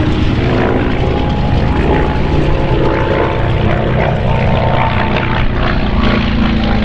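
Grumman Wildcat's radial piston engine and propeller droning steadily as the fighter flies its display pass, the engine note shifting in pitch near the end.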